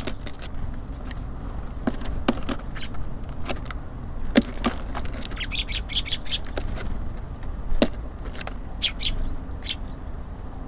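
Small songbirds at a bird feeder giving quick high chirps in short bursts, with a few sharp taps among them, over a steady low background rumble.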